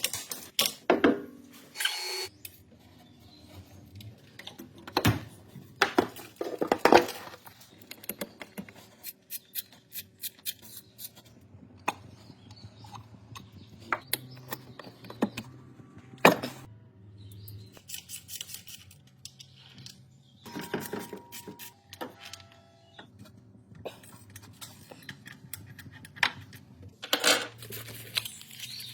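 Hand tools and metal parts being handled during car maintenance work: irregular metallic clinks, taps and knocks, with a few louder knocks spread through.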